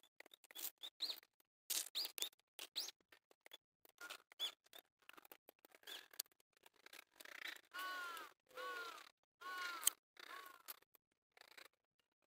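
Small birds chirping, short squeaky calls that rise and fall in pitch, heard in choppy snatches, with a denser run of chirps in the middle.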